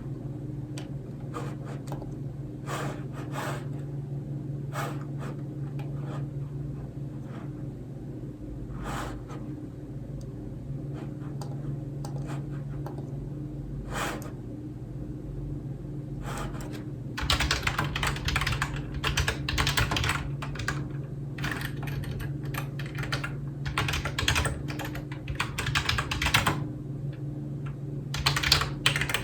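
Typing on a computer keyboard: scattered single keystrokes at first, then fast continuous typing from a little past halfway, a brief pause, and typing again near the end. A steady low hum runs underneath.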